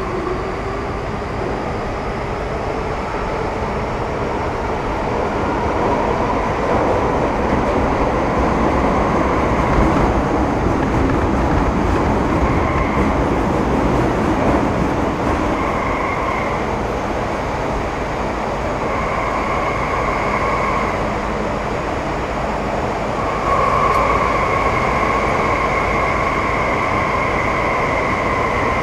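Metro Cammell M-Train electric multiple unit with GEC GTO chopper traction running between stations, heard from inside the car: a steady rumble with a motor whine rising in pitch at first as the train picks up speed. Higher whining tones come and go several times in the second half, the longest near the end.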